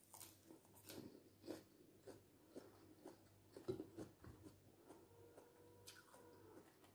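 Faint chewing of a baked pastry fish roll, with small irregular mouth clicks and smacks several times a second.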